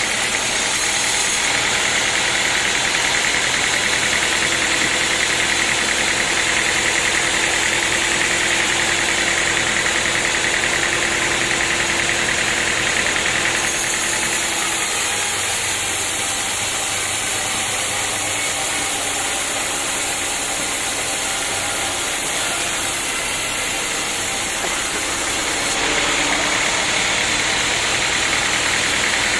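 Sawmill machinery running steadily with a loud mechanical noise and a steady whine; the sound shifts about halfway through and again near the end.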